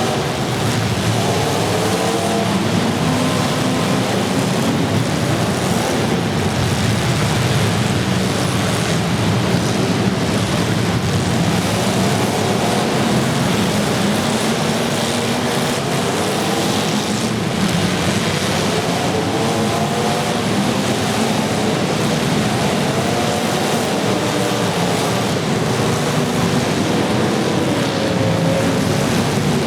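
Several demolition derby cars' engines running together as a loud, steady din, with engines revving up and down again and again.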